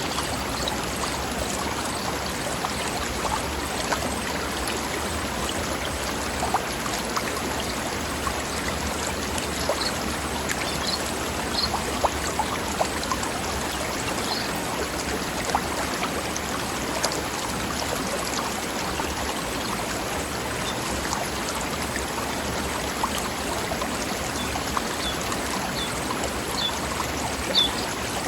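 Forest stream running steadily over rocks, an even rush of water with small splashes and gurgles coming through it.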